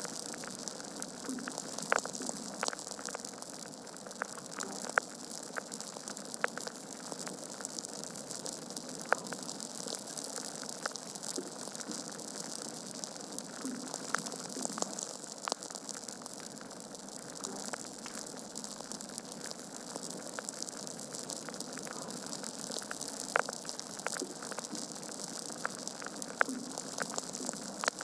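Wood fire burning in a fireplace: a steady hiss with frequent irregular sharp crackles and pops from the burning logs.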